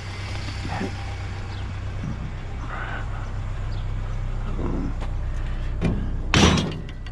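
A vehicle engine idling steadily, with a few light knocks and one loud metallic clank about six and a half seconds in.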